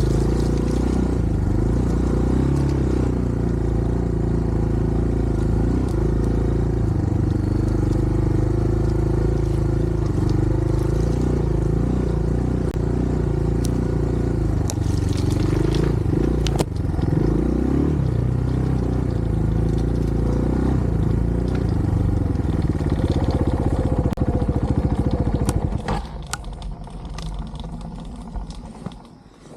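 Dirt bike engine running steadily at low revs while the bike is ridden slowly through mud, with a single sharp knock about halfway through. The engine sound dies away a few seconds before the end.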